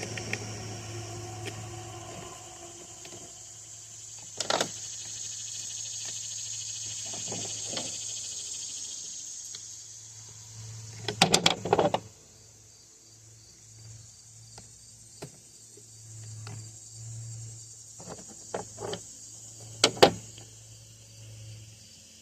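Scattered sharp metal clicks and clinks of Torx drivers and chainsaw parts being handled as screws come out of the saw, loudest in a quick cluster about halfway and once more near the end. Under them runs a steady low hum, with a high hiss that fades out midway.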